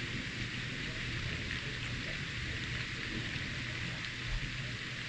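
Steady rain falling, an even hiss of drops with no breaks, over a steady low hum.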